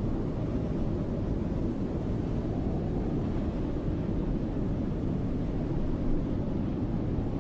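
Snowstorm wind blowing as a steady, deep rush, without gusts or breaks.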